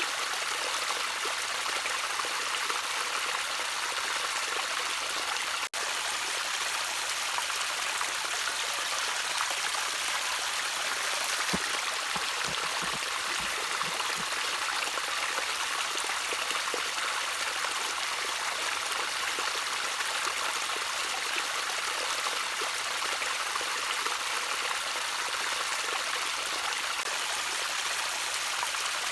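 Gently trickling water of a small stream, a steady hiss of running water with a few low gurgles. There is a momentary dropout about six seconds in.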